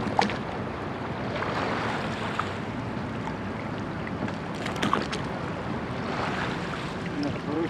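Water and wind rushing on the microphone aboard a rowed church boat, with a few sharp knocks from the oars.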